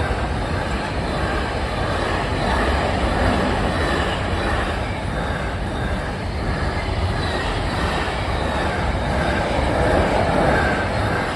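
Container wagons of a Class 66-hauled freight train rolling steadily past on the rails.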